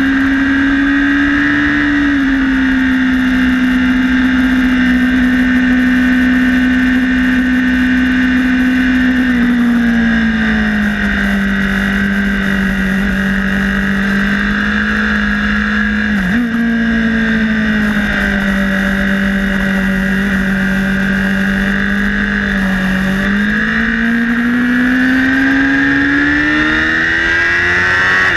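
Honda CBR1000RR's inline-four engine running at high revs through a sweeping corner, with wind noise on the microphone. The engine note holds steady, sags lower about ten seconds in, hiccups briefly about sixteen seconds in, then climbs steadily over the last five seconds as the bike accelerates.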